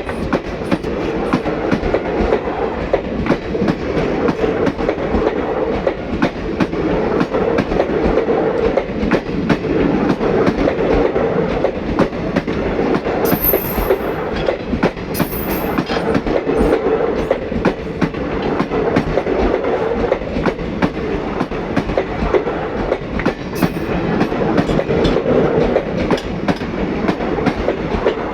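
Indian Railways passenger train running on the track: a steady rumble with rapid clickety-clack of the wheels over the rail joints. Two brief high squeaks come about halfway through.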